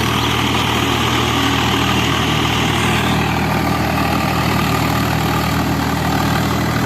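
Swaraj 855 tractor's three-cylinder diesel engine running steadily, with a deep, even engine note.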